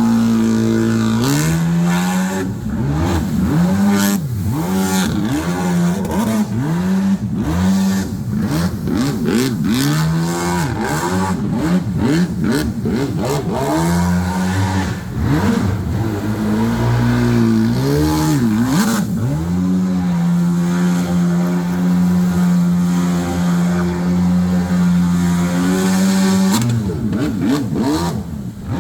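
Small engine of a mini jet boat revving up and down in quick repeated blips, then held at a steady high speed for several seconds before dropping back near the end.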